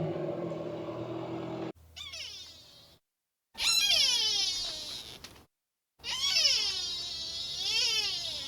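An animal's high calls, several of them, each sliding down in pitch over about a second, in short pieces that cut off abruptly between them.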